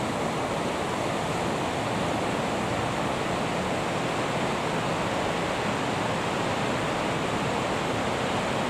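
Steady rush of fast-flowing water from the River Isla, an even roar that begins abruptly at a cut.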